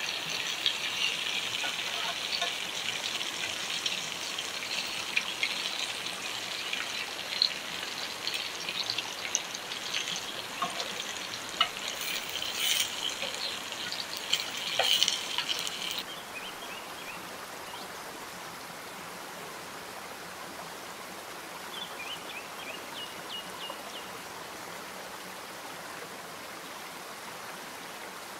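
Stuffed green chillies sizzling and crackling in hot oil in a frying pan, with a few sharp clicks as metal tongs turn them. About sixteen seconds in the sizzle cuts off, leaving a quieter steady hiss with a few faint clicks.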